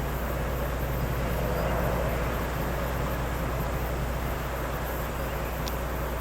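Diesel engine of a Scania logging truck loaded with logs, running steadily with a low, even drone.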